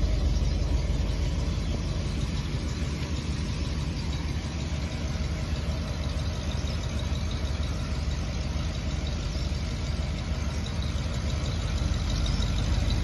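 Diesel engine of a Hino truck idling steadily.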